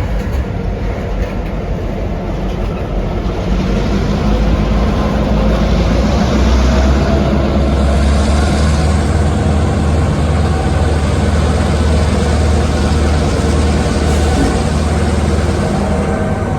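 Diesel locomotive engine running with a steady low throb, growing louder over the first few seconds as it comes close, then holding steady.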